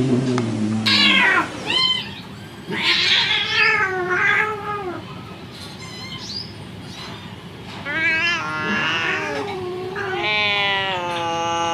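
Angry domestic cats yowling and meowing in a series of drawn-out, pitch-bending calls, ending in a long held yowl.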